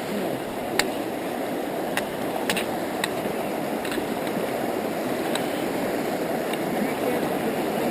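River water rushing steadily over rocks, with a few sharp clicks and knocks scattered through it.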